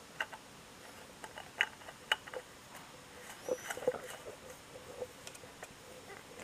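Faint, scattered light clicks and taps of a new K&N oil filter being handled and threaded onto the motorcycle engine by hand.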